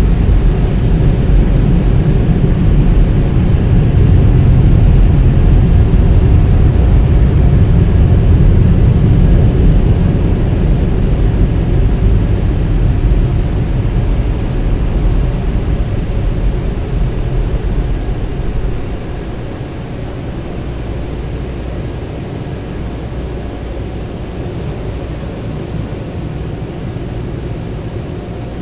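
Automatic car wash machinery running with a loud, steady rushing noise. The noise drops to a lower level about two-thirds of the way through.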